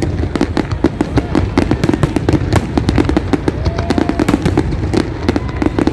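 Fireworks display going off: a dense, continuous run of rapid crackling bangs and pops over a steady low rumble of booms.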